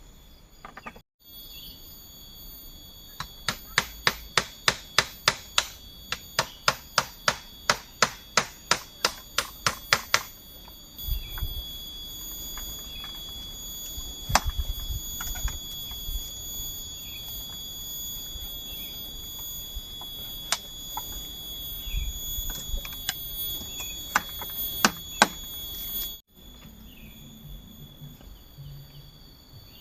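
A blade chopping bamboo in a fast, even run of strikes, about three a second, for several seconds. Then a steady, high insect drone with a few single knocks.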